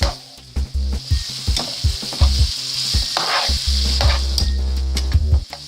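Chicken and peppers sizzling in a hot frying pan while being stirred, with a steady frying hiss and repeated short clicks and knocks of the utensil against the pan.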